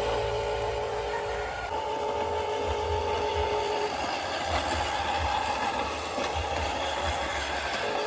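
Huina 1573 radio-controlled dump truck's electric motors and gears whining as it drives, over a low rumble; the whine changes pitch a couple of times as the throttle changes.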